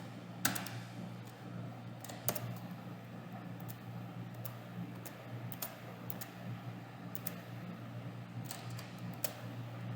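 Sparse, irregular clicks from a computer keyboard and mouse, about ten over the stretch, over a steady low electrical hum.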